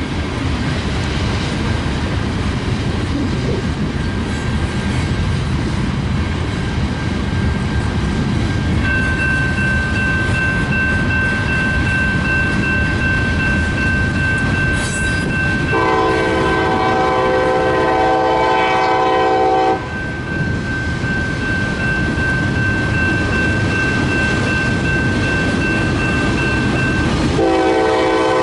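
Locomotive air horn sounding a multi-note chord, one long blast of about four seconds in the middle and another starting near the end, over the steady rumble of a passing train. A steady high-pitched squeal runs through much of it.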